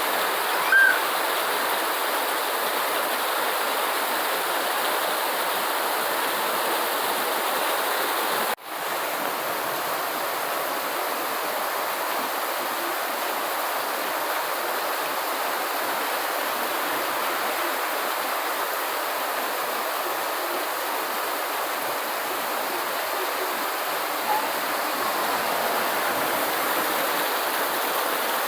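Steady rainfall, an even hiss of falling rain. A short high chirp sounds about a second in. The sound cuts out for an instant about eight seconds in, then resumes.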